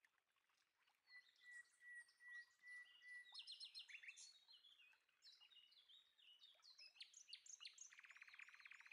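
Faint birdsong: many short chirps and whistled calls. A thin steady whistle runs for about two seconds near the start, and a fast buzzing trill begins near the end.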